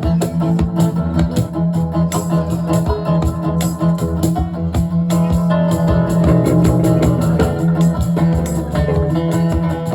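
Live band playing an instrumental passage with organ to the fore, over bass and drums.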